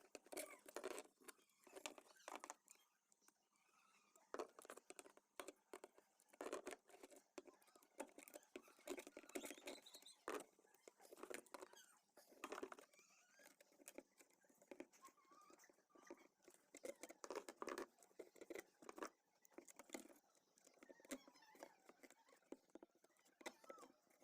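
Faint, irregular clicks, taps and rustles of hands handling and working on parts, several a second.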